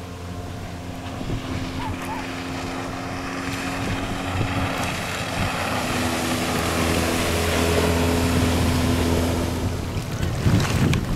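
Small outboard motor driving an inflatable PVC motor boat, a steady engine tone that grows louder over the first eight seconds and then eases off, with wind and water noise.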